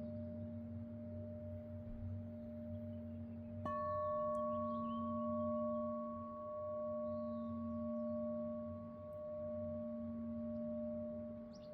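Singing bowl ringing with a steady, sustained tone, struck again about four seconds in so that higher tones join the ring; the sound swells and fades slowly as it rings on. Faint bird chirps are heard over it.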